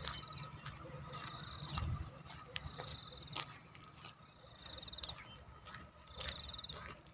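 A small bird's short, high trilled call, repeated about every one and a half seconds, over a low rumble and scattered sharp clicks, the rumble loudest about two seconds in.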